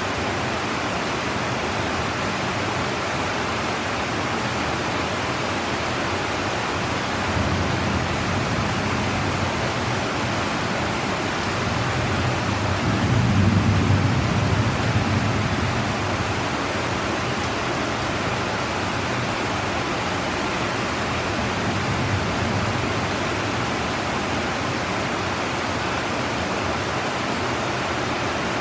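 Heavy rain falling steadily in a dense, even hiss. About halfway through, a low rumble swells for a few seconds and fades.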